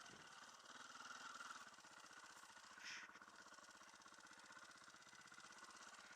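Faint dirt bike engine idling steadily, with one brief faint sound about three seconds in.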